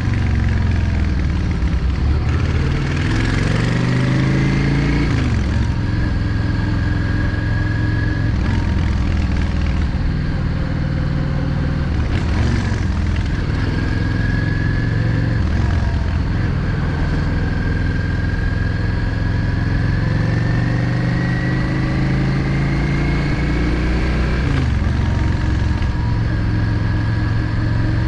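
Yamaha XVS 650 Drag Star's air-cooled V-twin engine running under way, its pitch climbing as the bike accelerates and dropping back sharply at gear changes about 5 seconds in, around the middle and near the end.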